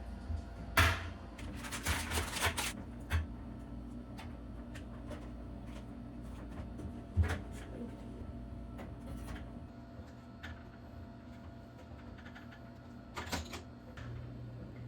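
Household objects being handled and set down: a sharp knock, a short run of rattling clicks, another knock about seven seconds in and a few clicks near the end, over a low steady hum.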